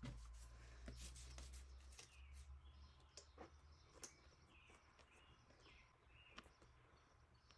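Near silence, with faint scattered clicks and light handling noises from small craft materials being worked by hand.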